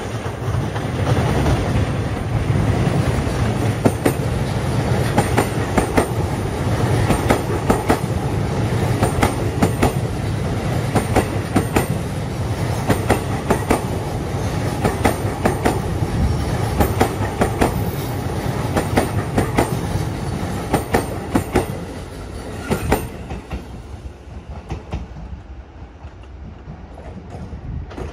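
A JR Keiyo Line E233 series electric commuter train running past close by: a steady rumble with its wheels clacking repeatedly over the rail joints. It dies down about 23 seconds in as the last cars pass.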